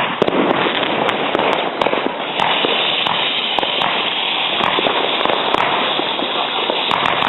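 New Year's Eve fireworks and firecrackers going off: a dense, unbroken crackle of many small bangs overlapping one another.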